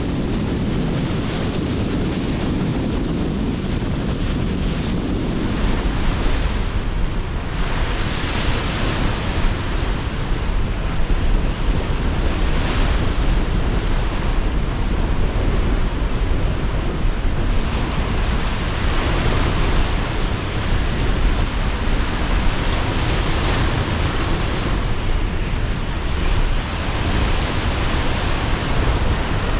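Sea surf breaking in waves under strong, gusting wind, with wind buffeting the microphone as a low rumble.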